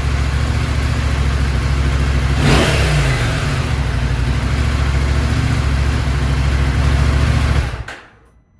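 2024 KTM 790 Adventure's parallel-twin engine running through a Wings titanium slip-on exhaust. It runs steadily at idle, gives one quick throttle blip about two and a half seconds in, and cuts off abruptly near the end.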